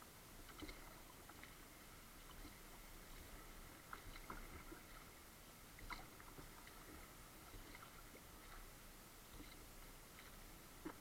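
Faint kayak paddling: soft, irregular splashes and ticks of the paddle in the water over a quiet hiss.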